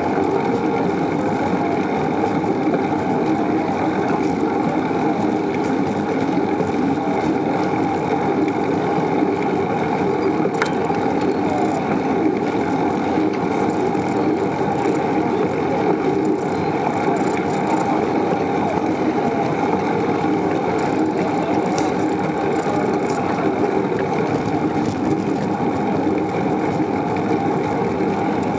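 Steady wind and road noise of a bicycle ride, holding at an even level with no sudden sounds.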